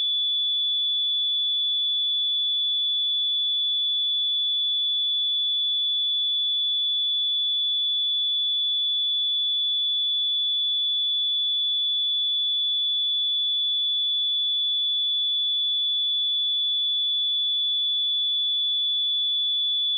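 A pure electronic sine-wave test tone at 3452 Hz: a single high-pitched steady whistle-like tone, holding constant pitch and level.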